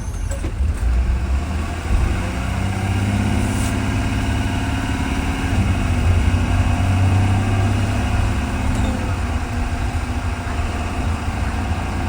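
Engine of a 2020 Blue Bird Vision school bus running under way, heard from inside the bus. Its pitch rises about two seconds in, steps down about five and a half seconds in, then holds steady.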